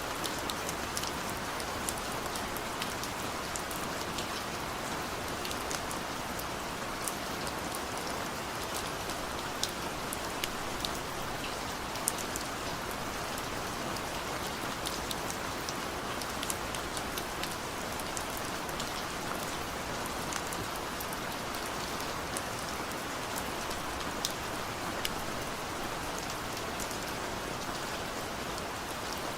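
Heavy rain falling steadily, a dense even hiss with many individual drops ticking sharply on top.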